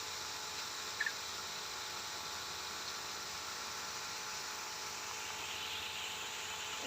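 Steady hiss of an aviary's artificial-rain sprinkler system spraying water hard onto the leaves and floor, with a short high chirp about a second in.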